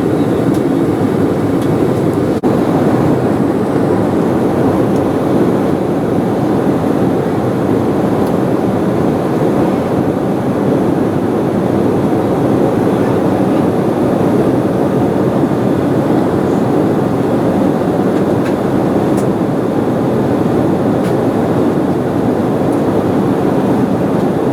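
Steady cabin noise of an Embraer 190 airliner in flight: the low rumble of airflow and its two turbofan engines, even throughout.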